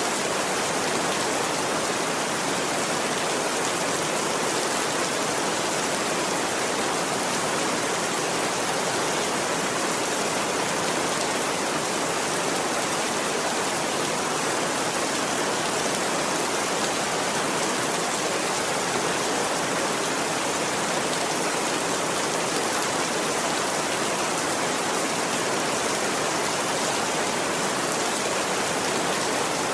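Steady, dense rain falling, an even hiss with no letup.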